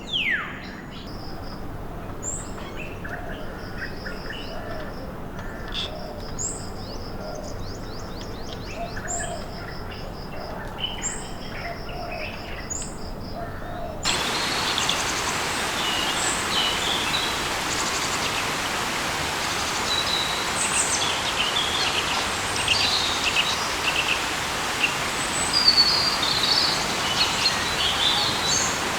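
Rainforest birds calling: falling whistles at the start, then repeated short high chirps and trills over a faint, steady high buzz. About halfway the background switches abruptly to a louder, steady hiss, with bird chirps still sounding over it.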